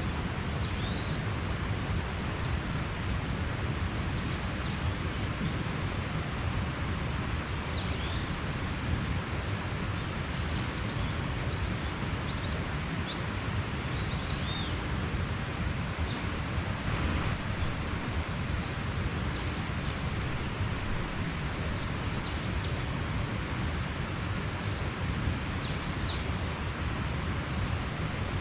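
Steady rushing of a mountain stream, with a small bird giving short high chirps every second or two over it.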